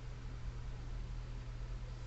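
Steady low hum under a faint even hiss: quiet indoor room tone, with no distinct sound events.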